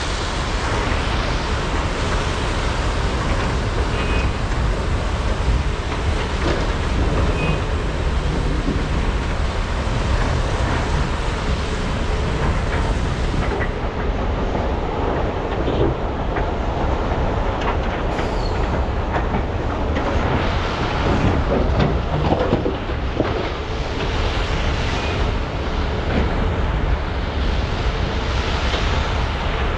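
Heavy diesel engines of large hydraulic excavators running steadily under load, a constant deep rumble with scattered clanks and rattles from digging and loading.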